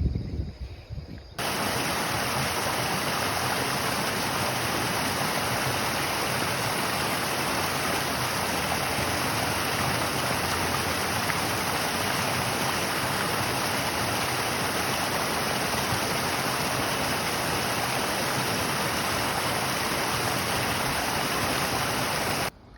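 Steady rushing water, like a stream or waterfall, starting abruptly about a second and a half in and cutting off just before the end. A low, gusty rumble comes before it.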